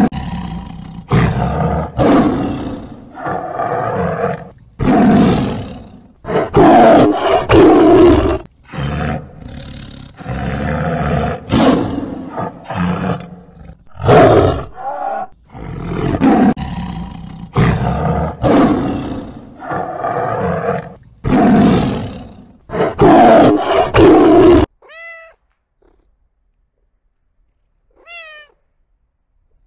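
Loud, repeated roars from a large animal, one call after another. They cut off abruptly near the end and are followed by a few faint, short meows that fall in pitch.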